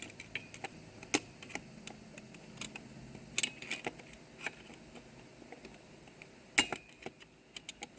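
Scattered sharp metallic clicks and taps of snap ring pliers working at a snap ring inside a 4L60E transmission, the tips slipping while trying to catch the ring. The loudest clicks come about a second in, around three and a half seconds and near six and a half seconds.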